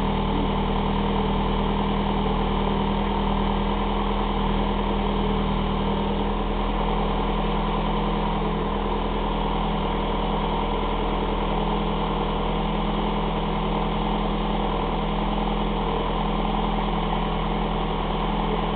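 Toyota Celica GT-Four's 3S-GTE turbocharged four-cylinder engine idling steadily on its first run after a full rebuild.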